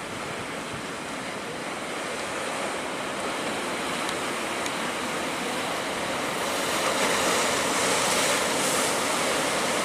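Heavy ocean surf: a steady rush of breaking waves that swells louder about two-thirds of the way through.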